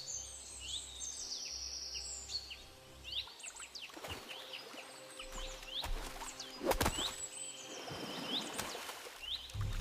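Small birds chirping, many short rising chirps mixed with higher, flat whistled notes, over a faint low steady drone. A few brief sharp clicks or rustles come through about four seconds in and again around seven seconds.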